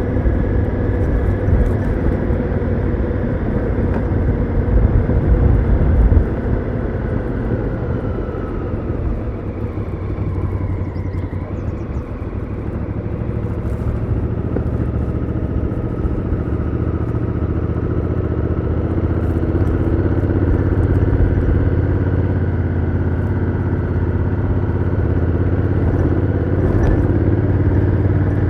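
Honda Africa Twin CRF1000L's parallel-twin engine running through its stock exhaust while riding, with a low wind rumble on the microphone for the first several seconds. The engine note falls about ten seconds in as the bike slows, then climbs steadily again.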